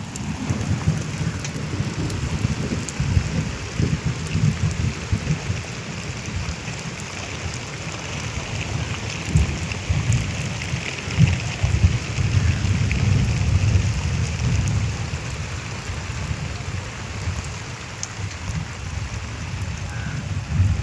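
Rain falling steadily, with a low rumble underneath that swells and fades.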